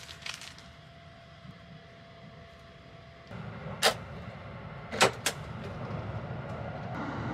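Low running rumble inside a sleeper train, which gets louder about three seconds in, with three sharp clicks in the second half.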